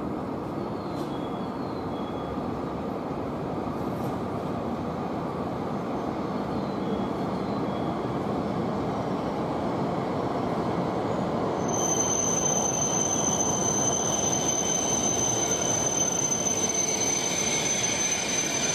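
E5 series Shinkansen train pulling into the station: a steady rumble of wheels and running gear that grows slowly louder as it comes alongside. About twelve seconds in, a high steady brake squeal joins it as the train slows to a stop.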